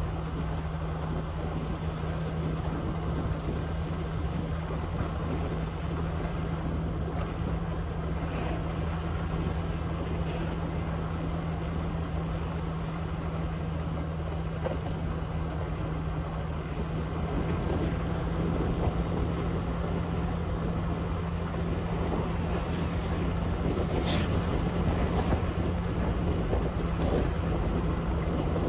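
Motorbike engine running steadily while riding, a low even hum under heavy wind noise on the microphone, getting a little louder in the second half.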